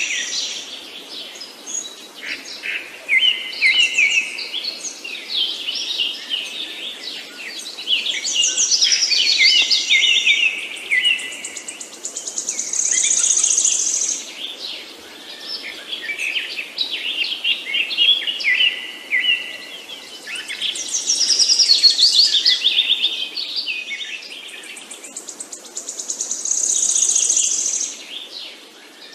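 Several songbirds chirping and singing over one another in a steady chorus of quick twitters and trills. A high buzzing trill swells and fades every few seconds.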